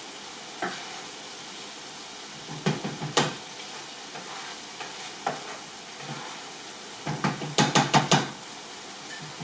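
Chicken tikka masala gravy sizzling steadily in a large cooking pan, with a spoon scraping and knocking against the pan in two short bouts of stirring, about three seconds in and again around seven to eight seconds.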